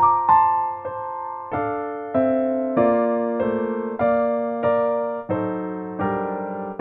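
Background music: a slow electric piano playing chords, each struck about once a second and left to ring.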